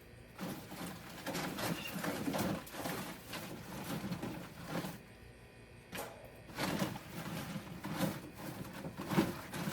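Low cooing of birds, with rustling and knocking as loofahs are handled.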